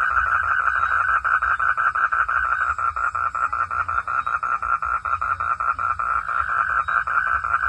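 Frogs calling in a steady chorus, a rapid pulsing of about six pulses a second, with a low rumble underneath.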